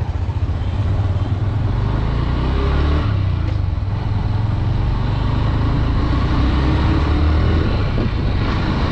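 Honda Dream 110's single-cylinder 110cc four-stroke engine running steadily, with road and wind noise.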